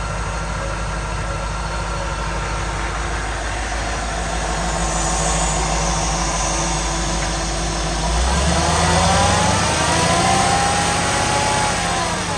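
1999 GM/Chevrolet heavy-duty 5.7L V8 engine idling steadily, then revved up about eight seconds in. It holds the higher speed and drops back toward idle near the end.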